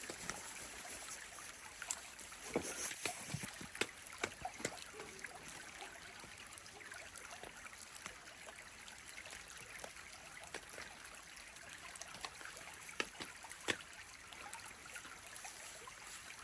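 A stream running with a faint, steady hiss, with scattered sharp ticks and taps over it.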